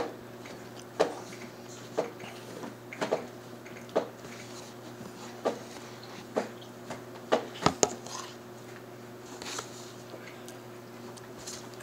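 Close-up eating sounds: chewing with wet lip smacks and clicks, roughly one a second and thinning out near the end, over a steady low hum.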